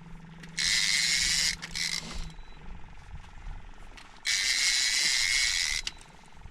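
Fishing reel buzzing in two loud bursts, the first about a second long and the second about a second and a half, as a hooked fish just freed from coral is fought. A low steady hum stops a little over two seconds in.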